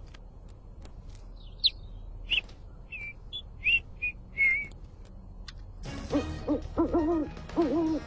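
Bird calls: a run of short, high chirps and whistled notes over a few seconds, then, from about six seconds in, a quick series of low, rising-and-falling hoots like an owl's.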